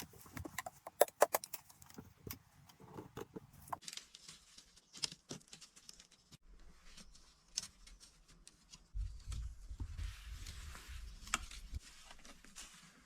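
Scattered light clicks, taps and rustles of bamboo and dry grass being handled, the sharpest clicks about a second in, with a low rumble for about three seconds near the end.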